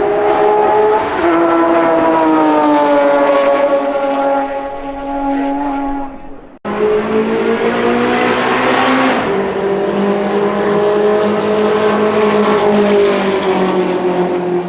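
Race car engines at speed on the track. The first engine note steps down in pitch and then slowly falls, breaks off abruptly about six and a half seconds in, and a second car's engine comes in, rising in pitch and then holding steady.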